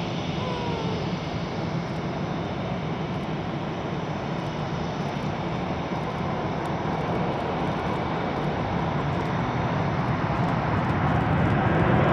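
Four Blue Angels F/A-18 Hornet jets of the Diamond formation on their takeoff roll in afterburner: a steady jet roar that grows louder over the last few seconds as they approach.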